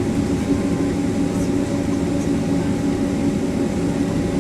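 Steady cabin noise inside a Boeing 767-300 on the ground before takeoff: a constant jet-engine and air-system rumble with a low steady hum.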